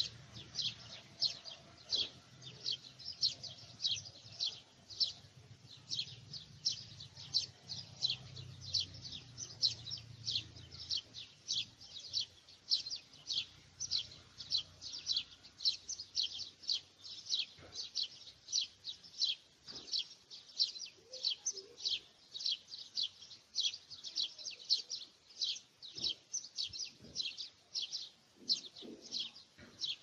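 A bird chirping over and over in a steady, rapid series, about two to three short high chirps a second.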